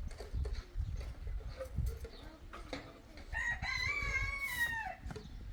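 A rooster crowing once, about three seconds in: one long call that rises, holds steady and drops off at the end, over a low rumbling background.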